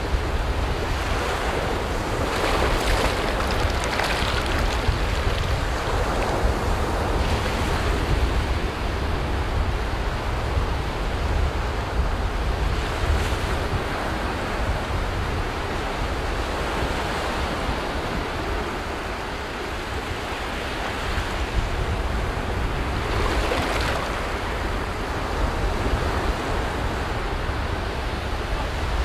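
Ocean waves surging and breaking on a beach, a continuous wash that swells a few seconds in and again near the end, with wind buffeting the microphone as a steady low rumble.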